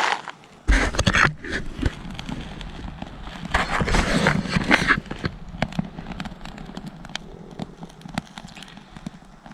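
Freshly lit campfire crackling, with many short sharp pops scattered through the second half. Louder bursts of noise come about a second in and again around the middle.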